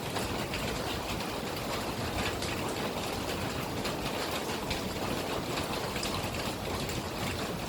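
Steady rain, an even hiss with faint scattered taps of drops.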